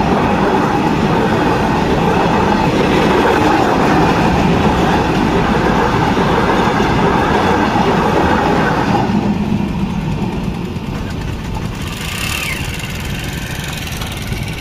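Long freight train of covered goods wagons rumbling past at speed, wheels running on the rails. The noise starts to fade about nine seconds in as the last wagons go by, and dies down to a receding rumble.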